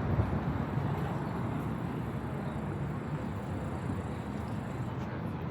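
Steady low rumble of city traffic, an even noise with no distinct events, easing slightly in level.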